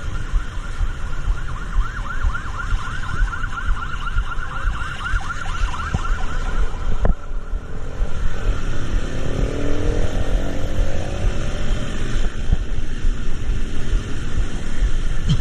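An emergency-vehicle siren yelping in fast, repeated rising sweeps, about three or four a second, over the steady low rumble of road traffic. The siren stops about halfway through. Shortly after, an engine note climbs in pitch as a vehicle accelerates.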